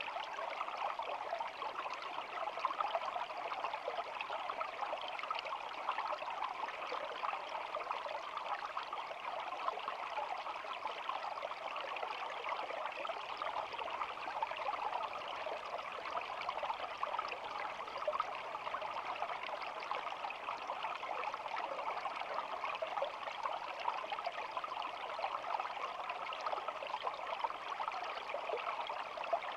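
Shallow stream babbling and trickling steadily over stones, an even, unbroken water sound.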